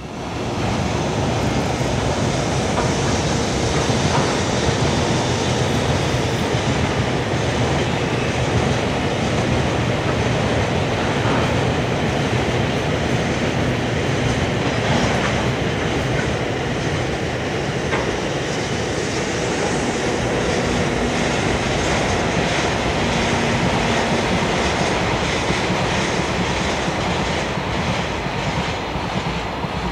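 Freight train of oil tank wagons behind an EH200 electric locomotive rolling across a river viaduct: a loud, steady rumble of wheels on rail with rapid clickety-clack over the rail joints.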